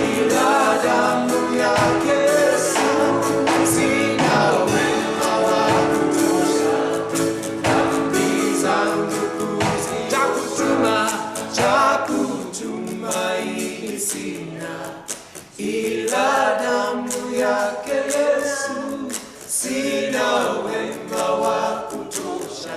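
A choir singing a gospel worship song, several voices together holding and moving between sung notes.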